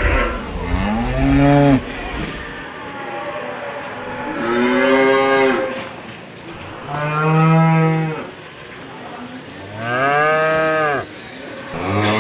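Cows mooing: four long moos a couple of seconds apart, each rising then falling in pitch, with a fifth beginning near the end. A low rumble sits under the first moo.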